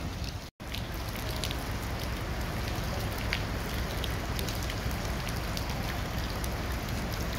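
Steady rain falling on flooded pavement, an even hiss with a few scattered drop taps. The sound cuts out for an instant about half a second in.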